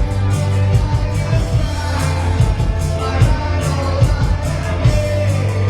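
Live band playing a synth-driven new wave song: steady bass and drum beat under synthesizer lines, with some singing.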